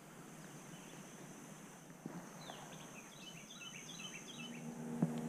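Quiet outdoor ambience by the water: a bird sings a quick run of short chirps in the middle, over a steady high thin drone. A low steady hum with overtones starts near the end.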